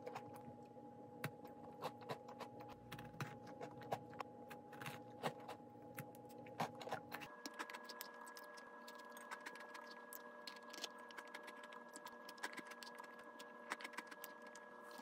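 Close-up chewing of a frozen black sesame cookie: a steady run of small, sharp, crisp crunches as it crumbles in the mouth.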